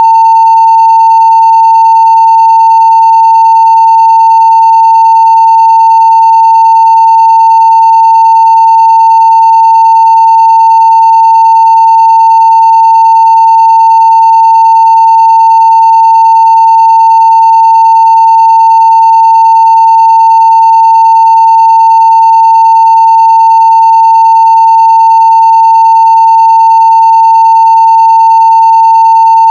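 Continuous 900 Hz sine-wave test tone at full-scale (0 dB) level, one steady unbroken pitch.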